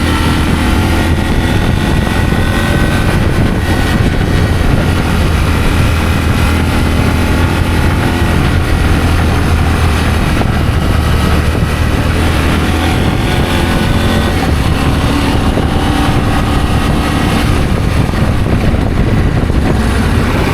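An adventure motorcycle being ridden, its engine running steadily under a strong low rumble, with the engine note drifting slightly up and down.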